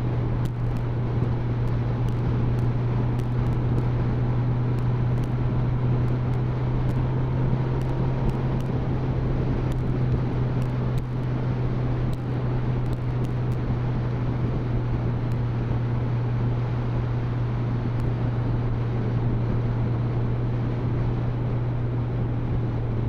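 Motorcycle engine running at steady cruising revs, a constant low hum under a haze of wind and road noise.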